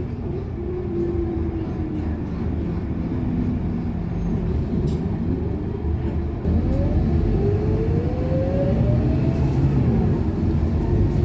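Scania K230UB single-decker bus's engine running under way, a steady low drone. It gets louder about six seconds into the clip, with a rising whine as the bus accelerates.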